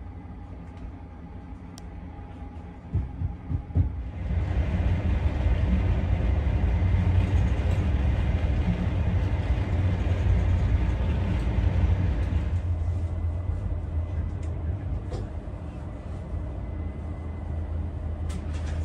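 Sleeper train running along the track, heard from inside the carriage: a steady low rumble, quieter at first, that grows louder about four seconds in after a few knocks.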